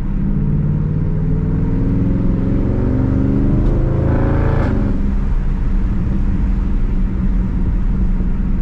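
Dodge 392 Hemi V8 heard from inside the cabin, pulling hard with its exhaust note rising in pitch for about four and a half seconds. It drops at a gear change and settles into a steady cruise.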